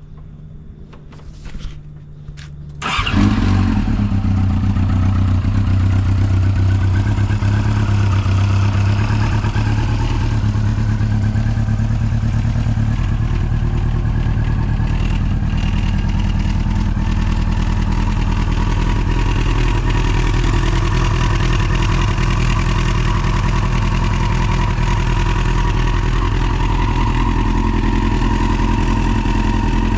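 Yamaha YZF-R6 (5EB) 600 cc inline-four with a Striker titanium full exhaust, cold-started: it cranks briefly, catches about three seconds in, and then idles steadily. The engine shows no abnormal mechanical noise.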